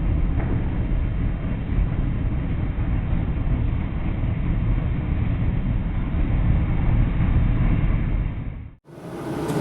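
Steady low rumbling noise. Near the end it cuts off sharply and a different steady rushing noise follows.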